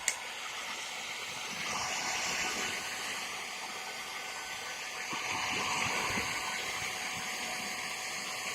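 Hair dryer blowing steadily, heating a motorcycle headlamp to soften the lens sealant so the lens can be removed. A sharp click right at the start.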